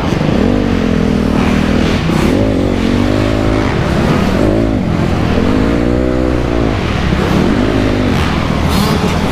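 2008 Honda CRF250R's single-cylinder four-stroke engine being ridden hard, its pitch climbing and dropping again and again as the throttle is opened and closed, about six or seven times.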